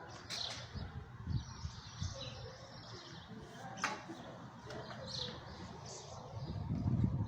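Birds chirping over a low rumbling background noise, with a single sharp crack about four seconds in and the rumble growing louder near the end.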